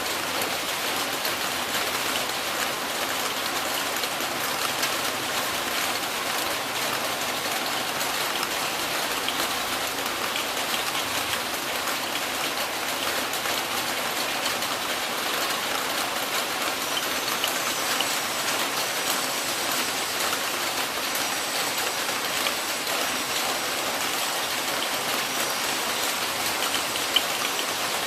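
Steady heavy rain falling, an even dense hiss of many drops hitting surfaces, unchanging throughout.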